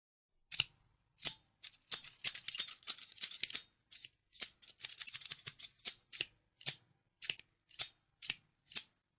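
Scissors snipping close up in sharp, crisp snips: quick runs of snips in the middle, then single snips about two a second near the end.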